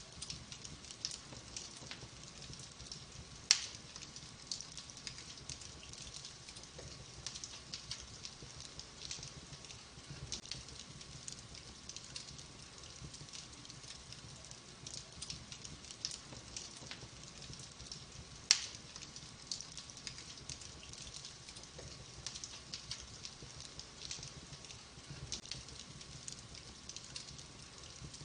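Wood fire in a fireplace crackling, with many small irregular snaps and two sharp, louder pops, one a few seconds in and another about two-thirds of the way through.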